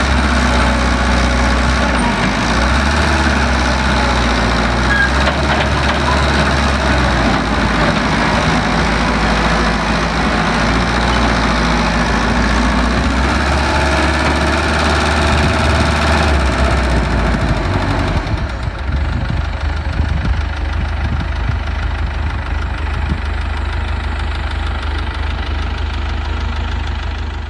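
Heavy diesel engine of construction machinery running steadily, with a busy working clatter above the low engine hum that eases off about two-thirds of the way through; the sound fades out at the very end.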